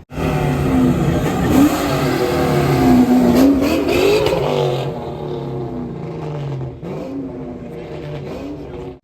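A car engine revving and accelerating hard, its pitch climbing and dropping several times. It is loudest in the first five seconds, then runs somewhat quieter with a couple more short rises near the end.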